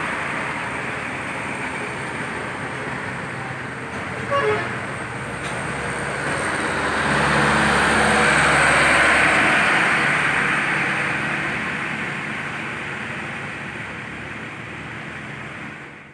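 Road traffic with a heavy vehicle passing, the noise building to its loudest about eight to nine seconds in and then fading. A short horn toot sounds about four seconds in.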